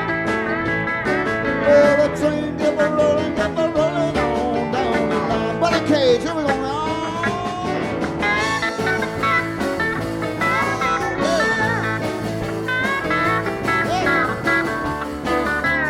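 A live blues-rock band of electric guitars, bass, keyboards, drums and pedal steel guitar playing an instrumental passage, with sliding, bending notes about six seconds in.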